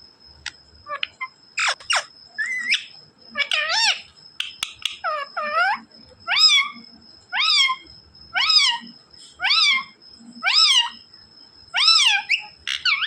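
Parrot calling over and over: short rising-then-falling pitched calls, about one a second, after a few rougher squawks at the start.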